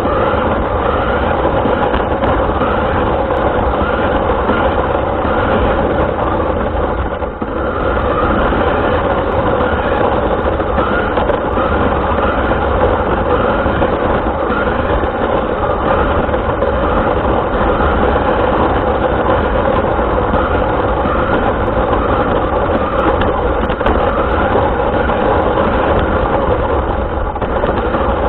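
Radio-controlled car's motor and drivetrain running steadily, picked up by a camera mounted on the car, with a brief dip about seven seconds in.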